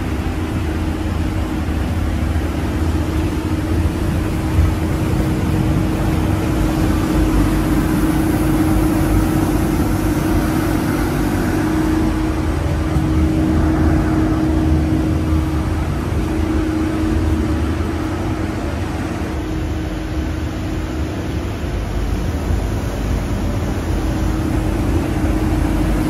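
Steady mechanical drone of a stationary electric train's onboard equipment, heard from inside the carriage: a constant hum over a low rumble.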